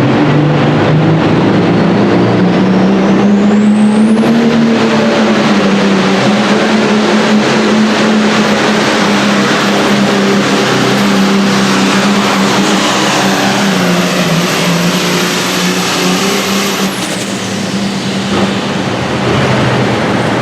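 Modified turbocharged diesel pulling tractor running flat out under load during a pull, a high turbo whine rising over the first few seconds and holding steady. Near the end the engine backs off and the whine falls away.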